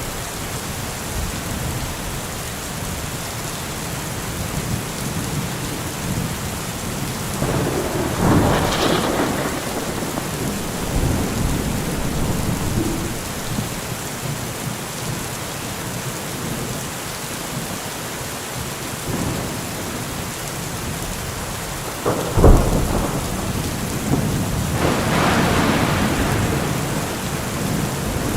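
Steady rain falling, with thunder: a rumble about eight seconds in, then a sharp crack a little past twenty seconds followed by a longer rolling rumble near the end.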